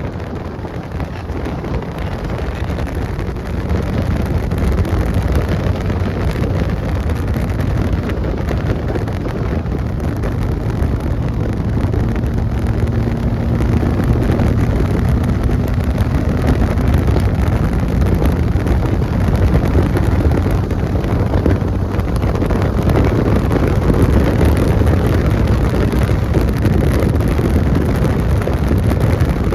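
A 1958 Austin-Healey Bugeye Sprite race car's engine running hard at speed, heard from on board with wind buffeting the microphone. It gets louder over the first few seconds, then holds steady.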